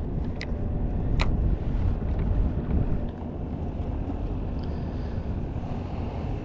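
Wind rumbling on the microphone aboard a small fishing skiff on the water, with two sharp clicks about half a second and a second in.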